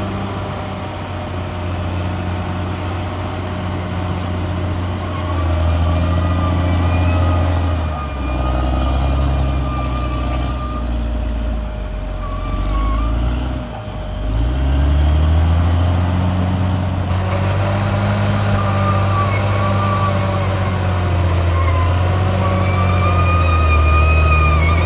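Bulldozer's diesel engine running steadily under load. About halfway through, the engine note sags in pitch and level, then climbs back up. A thin, wavering high whine runs above it.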